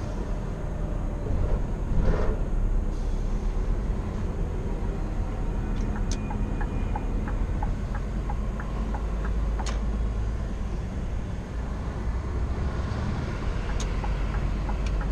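A 2016 Scania R490 truck driving, heard from inside the cab: a steady low drone from its 13-litre straight-six diesel engine and road noise. There is a brief louder rumble about two seconds in and a run of light ticks in the middle.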